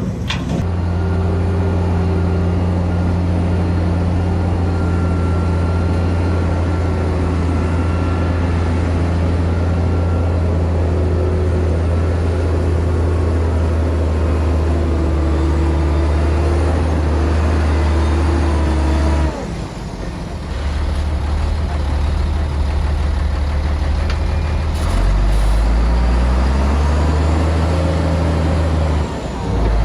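Heavy diesel earthmoving engine running steadily under load. About two-thirds through, its note drops suddenly and then picks up again. Near the end, the engine revs with a rising pitch.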